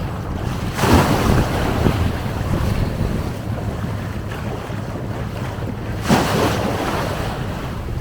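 Sea waves washing onto a stony shore, two louder surges about a second in and about six seconds in, over steady wind rumbling on the microphone.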